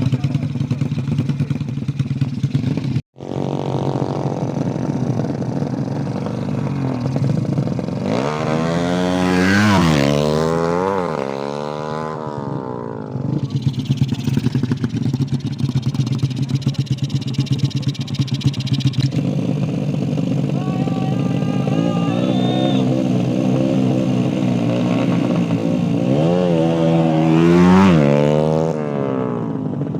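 Small mini-motorcycle engine idling, revved up and down a few times: a burst of revs about a third of the way in and another near the end, with a lighter rise in between.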